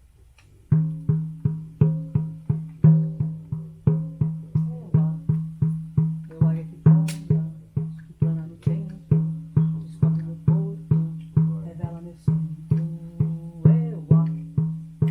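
A drum with a low, pitched ring, beaten in a steady rhythm of about three strokes a second, some strokes accented. It starts about a second in.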